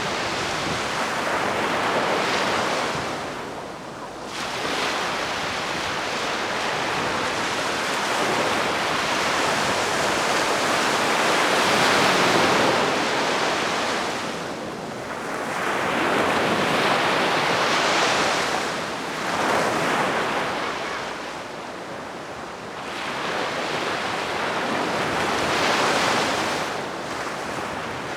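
Calm sea waves washing onto a beach, the wash swelling and fading every several seconds.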